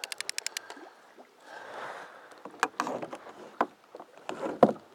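A fishing reel ratchets rapidly for about half a second while line is worked during a fight with a mahi-mahi. A short rush of noise follows about two seconds in, then several sharp separate knocks.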